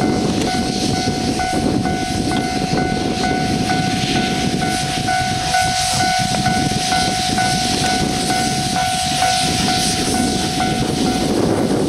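Steam locomotive pulling away from a station, its steam hissing and exhaust running continuously. A steady high tone and a quick, faint repeating ping sit over the noise.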